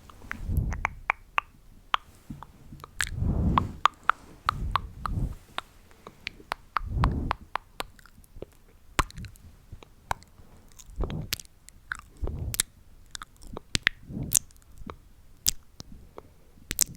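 Close-miked chewing: crisp clicks and crunches with a soft low thump every second or two.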